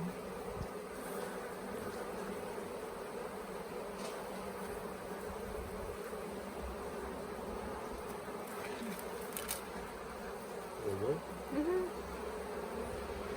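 Honeybee swarm buzzing: a steady, dense hum of many bees in flight, swelling louder for a moment near the end as bees pass close by.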